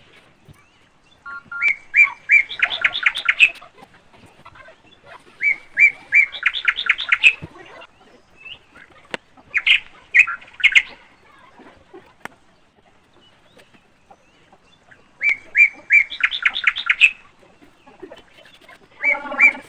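A bird singing the same short phrase four times, with pauses between: a few separate chirps running into a fast trill.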